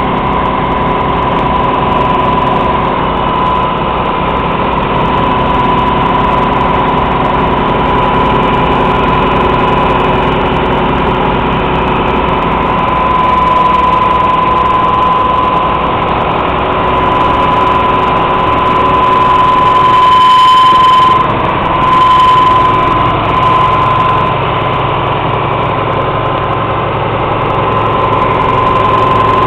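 Ford F-500 truck's 300 cubic inch straight-six engine running steadily at idle, briefly louder about two-thirds of the way through.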